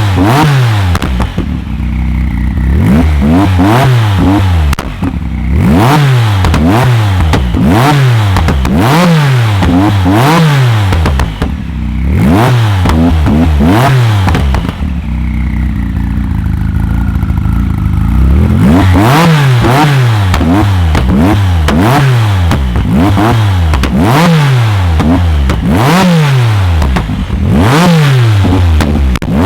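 A tuned car engine being revved hard over and over in quick blips, about once a second. Each rev rises sharply and drops back, with a few short lulls between bursts.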